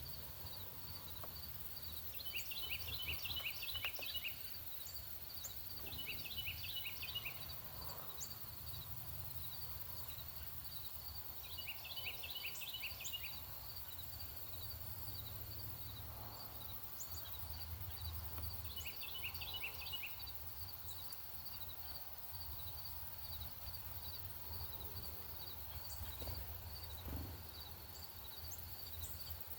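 Northern cardinal singing four phrases of rapidly repeated slurred notes, each phrase about one and a half to two seconds long, with long pauses between. A steady, fast-pulsing high insect trill and a low rumble run underneath.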